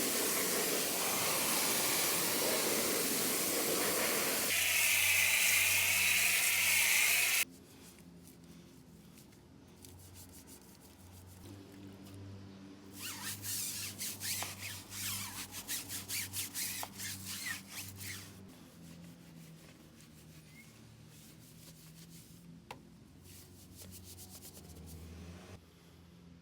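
Car wheel being cleaned: a loud, steady spray hiss for the first seven seconds or so, which cuts off suddenly, then a run of rhythmic scrubbing strokes on the wheel, about two or three a second, between a quiet low hum.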